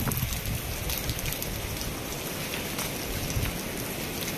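Heavy rain lashing down, a steady hiss of rain splashing on flooded paving, dotted with sharp ticks of drops striking close by.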